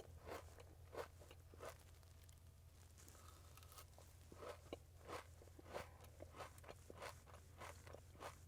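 Close-miked chewing of a Dubai chocolate brownie: soft, irregular crunches of the toasted kataifi (kunafa) pastry in its pistachio filling. The crunches come in two bouts, with a short pause after the first couple of seconds.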